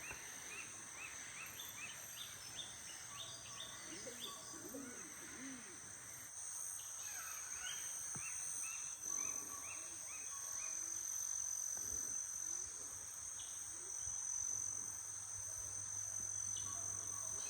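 Rainforest ambience: a steady high-pitched insect drone with birds calling, in series of short repeated chirps.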